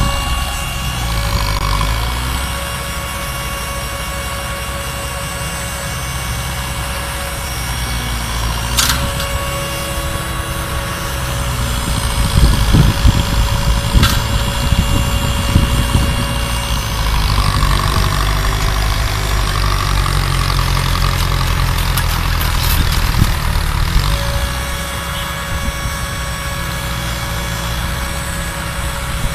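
An engine running steadily, with a louder stretch of knocking and rattling about twelve to sixteen seconds in.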